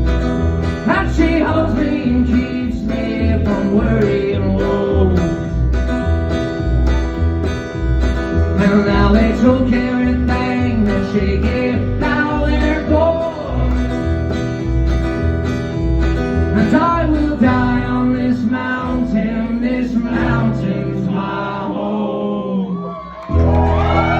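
Live acoustic string band playing the instrumental close of a country song, guitar over a steady bass beat. The music stops about a second before the end, and the audience breaks into cheering and whoops.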